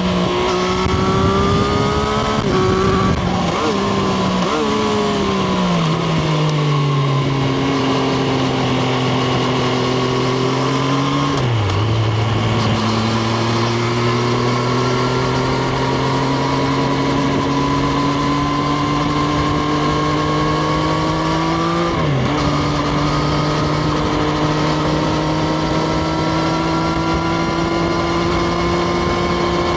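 Triumph Street Triple RS's 765 cc inline three-cylinder engine heard onboard while riding. The engine note falls over the first few seconds as the bike slows, then climbs slowly under gentle acceleration, broken by two quick upshifts about a third of the way in and about three quarters in.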